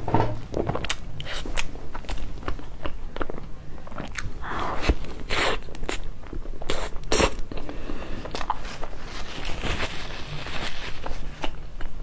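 Close-miked mouth sounds of someone chewing a cream-filled pastry: wet chewing and smacking with many small sharp crackles, irregular throughout.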